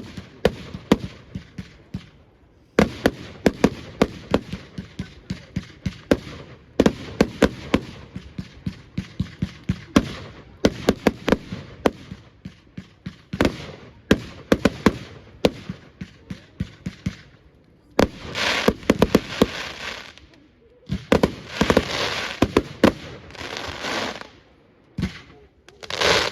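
Fireworks display: rapid volleys of sharp bangs in quick succession, broken by short pauses. Later the bursts turn to thicker crackling.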